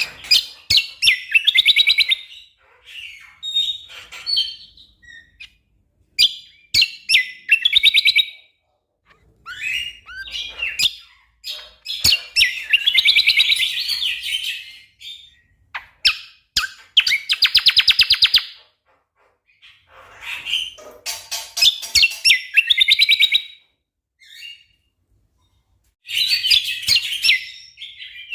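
Cucak kombo songbird singing in bursts a few seconds apart: fast trains of rapidly repeated notes ('tembakan rapat') mixed with sharp clicking calls, with short pauses between phrases.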